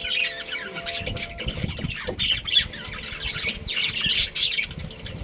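A flock of budgerigars chattering, with many short, overlapping chirps and squawks.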